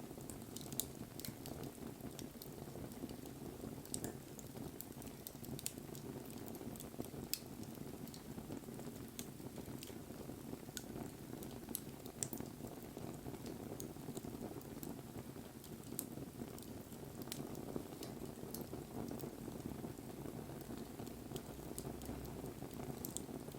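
Wood bonfire burning: a steady low rush of flame with scattered sharp crackles and pops from the burning wood.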